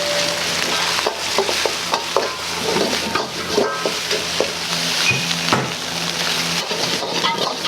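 Stir-frying in a wok: oil sizzling steadily while a metal ladle knocks and scrapes against the wok in quick, irregular strikes.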